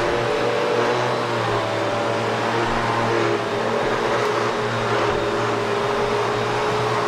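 Vacuum cleaner running steadily, a constant motor hum with a wavering higher whine as it is pushed over the floor.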